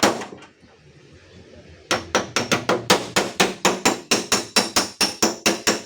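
Hammer strikes on the dented sheet-steel tailgate of a Daihatsu Xenia, beating out the dent. One strike rings away, then after a pause of about two seconds comes a steady run of quick taps, about five a second.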